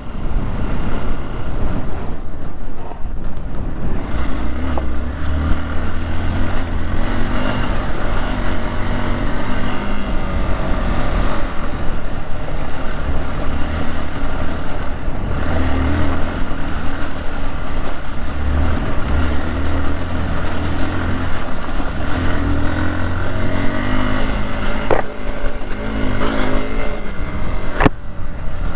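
Hero XPulse 200 motorcycle's single-cylinder four-stroke engine running under way, its note rising and falling with the throttle over a steady low rumble. Two short sharp clicks come near the end.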